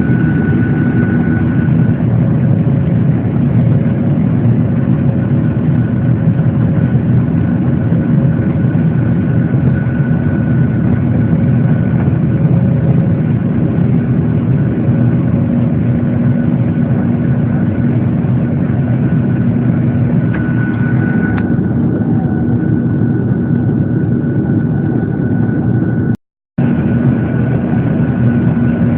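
Boeing 737-800's CFM56 jet engines heard from inside the cabin: a loud, steady drone with a thin high whine held over it. The sound cuts out completely for a split second near the end.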